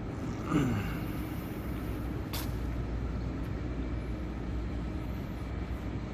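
Steady rumble of road traffic, with a short loud squeal falling in pitch about half a second in and a single sharp click a couple of seconds later.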